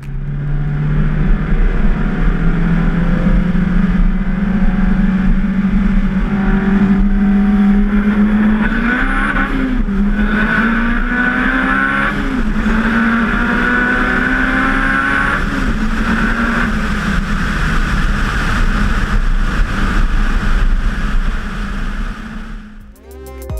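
Turbocharged Honda S2000's four-cylinder engine pulling hard under full acceleration, with its engine note climbing slowly. The note breaks briefly three times through the middle and fades away near the end.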